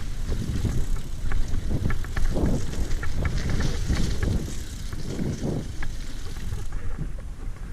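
Mountain bike moving along a dirt trail, with steady wind rumble on the microphone and scattered clicks and rattles from the bike.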